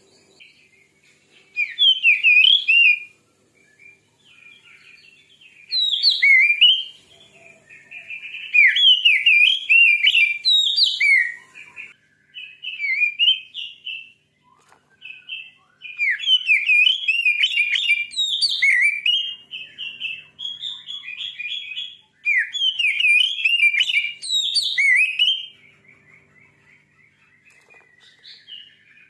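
Oriental magpie-robin (kacer) singing in loud bursts of fast, varied whistles and chirps. Its phrases last about one to four seconds, with short pauses between them. This is the fierce, aggressive song played to provoke a kept male.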